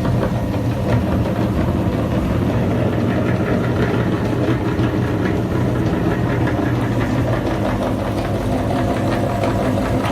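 Electric grinder motor running steadily under load, with a constant hum and many small crackling clicks as it crushes material.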